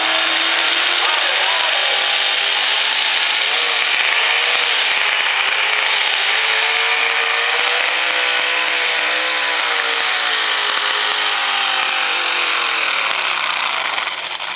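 Two-wheel-drive pulling truck's engine run hard at high revs through a pull. Its pitch wavers up and down, then sags toward the end before the sound drops off.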